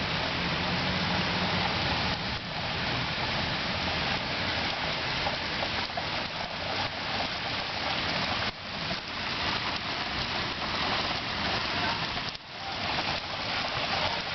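Heavy rain falling steadily in a thunderstorm, a dense, even hiss that briefly drops away twice, about two-thirds of the way through and again near the end.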